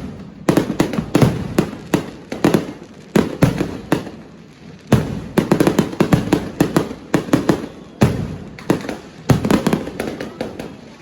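Many fireworks and firecrackers going off: sharp bangs in quick clusters, several a second, with each one dying away in a short echo.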